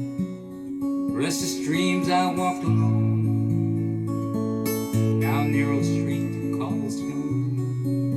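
Acoustic guitar strumming chords over sustained low notes: an instrumental passage of a slow folk song, with chord changes about every two seconds.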